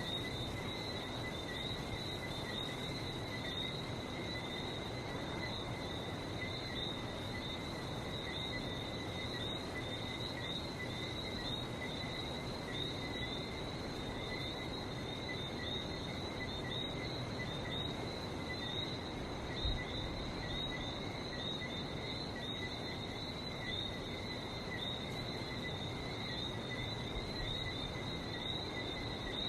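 A dense night chorus of Lesser Antillean whistling frogs, many overlapping high chirping whistles repeating without pause, over a steady low background hiss. A single brief low bump sounds about two-thirds of the way through.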